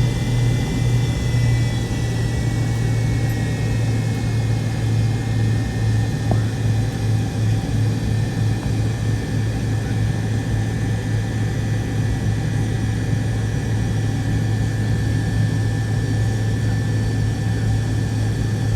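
Tail-mounted Pratt & Whitney JT8D jet engines of a McDonnell Douglas MD-88 running, heard inside the cabin: a loud, steady low hum with a thin high whine that drops slightly in pitch over the first few seconds.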